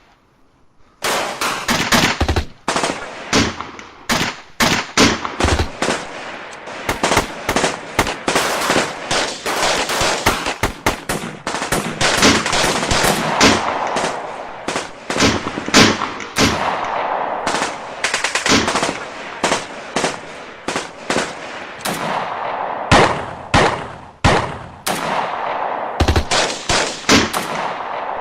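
Gunfire sound effect: many shots in irregular volleys and rapid bursts, starting about a second in, with echo ringing on between the shots.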